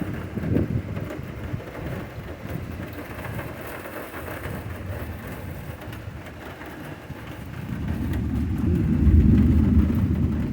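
Steady rain, with a low rumble of thunder that swells about three-quarters of the way through and is loudest near the end.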